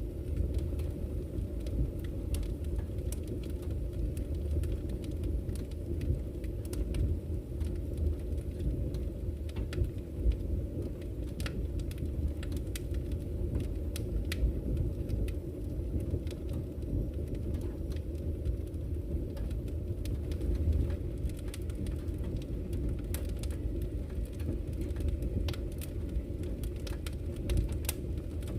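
Campfire crackling, with frequent sharp pops scattered irregularly, over a steady low rush of flowing river water.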